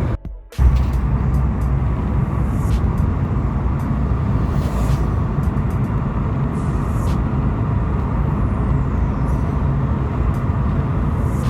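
Car driving at speed on a highway: steady road and engine rumble. The sound drops out briefly near the start.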